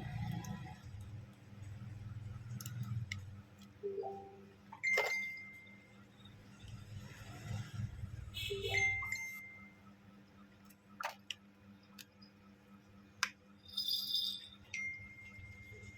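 Light clicks and metallic clinks of small repair tools and phone parts being handled, with a few short tones in between.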